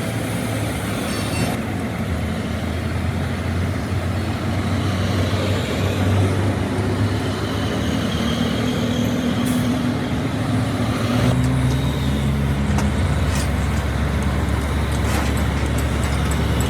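Truck engine running steadily, with road noise. About eleven seconds in, the sound changes abruptly and a deeper, steady hum takes over.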